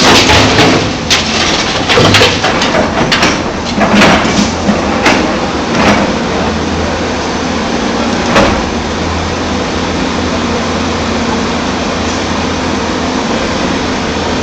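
Heavy machinery's diesel engine running steadily, with a series of sharp knocks and clatters over the first eight seconds or so, then only the engine.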